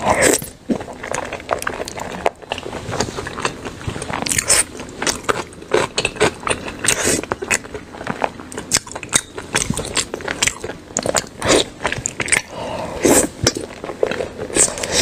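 Close-miked eating of braised pork: biting and chewing with many short, irregular wet mouth smacks and clicks, louder in clusters now and then.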